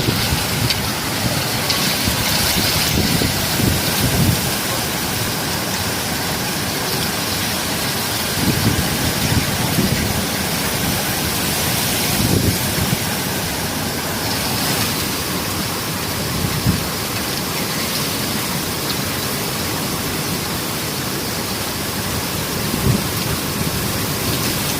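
Steady rain falling, a constant dense hiss. Irregular low rumbles come and go underneath it, typical of wind on the microphone.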